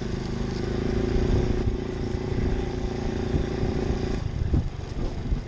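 Pit bike engine running at a steady pitch while being ridden; about four seconds in the engine note drops away briefly.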